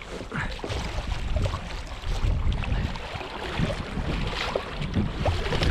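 Wind buffeting the microphone on a small boat, with scattered knocks and clatter from handling.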